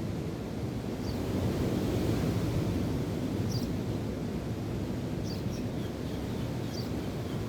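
Wind and waves making a steady rushing, swelling slightly about two seconds in, with brief high bird chirps every second or two.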